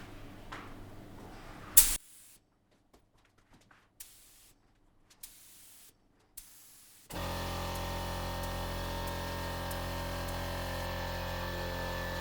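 A hissing spray that ends with a sharp click about two seconds in, then near silence broken by a few faint clicks. From about seven seconds a steady music bed of sustained tones comes in and holds level.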